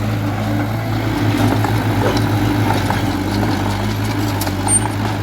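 Heavy construction machine's diesel engine running steadily at an even, idle-like speed, with a low hum that holds the same pitch throughout.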